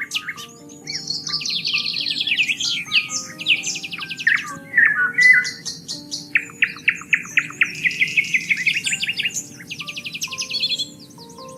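Several songbirds singing at once in fast, rapidly repeated trills and chirps, over soft background music of slow, held notes.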